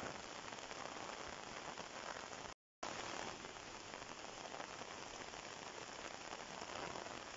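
Heavy monsoon rain pouring steadily, cutting out completely for a moment about two and a half seconds in.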